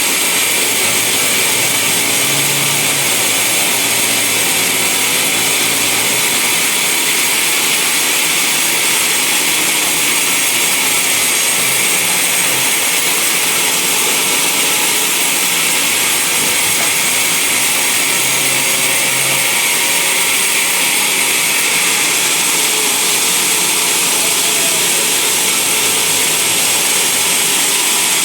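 Band sawmill running steadily: a loud, continuous, hissing mechanical noise with no break.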